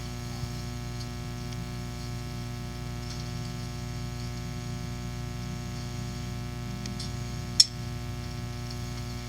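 Steady electrical mains hum and buzz on the audio feed, with a single sharp click about seven and a half seconds in.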